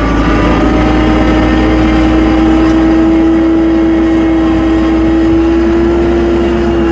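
Tractor engine running steadily under load as the tractor drives off on snow chains, its note holding level and creeping slightly higher.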